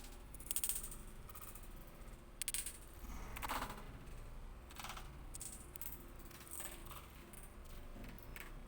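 Irregular short sharp clicks and crackles, several coming as quick rattling runs, the loudest about half a second, two and a half and three and a half seconds in.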